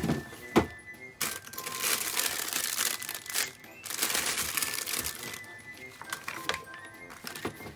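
Plastic crinkling and rustling as it is handled, in two long stretches, with a couple of sharp knocks near the start. Background music plays underneath.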